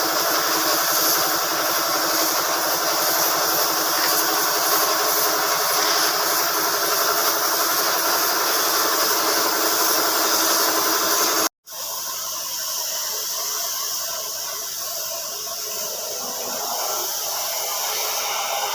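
Steady mechanical running noise with a strong hiss, like an engine or air-driven workshop machine; it cuts out for an instant about eleven seconds in and picks up again as a quieter, steady hiss.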